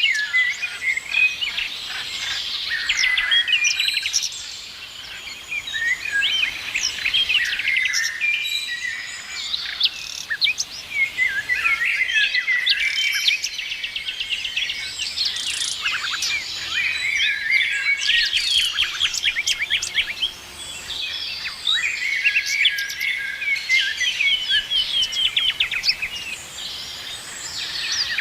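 Many songbirds chirping and singing at once in a dense chorus of overlapping chirps, trills and quick whistled notes.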